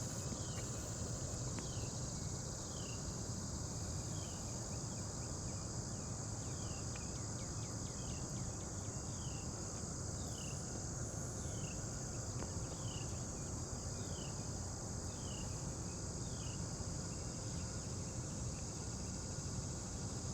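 Steady outdoor chorus of crickets and other insects, with a short falling chirp repeating about once a second. A low steady rumble runs underneath.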